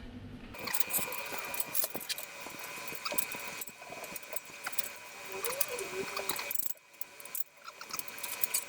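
Light clicks and taps of steel shelf parts being handled and fitted together, scattered irregularly, with a quieter stretch near the end.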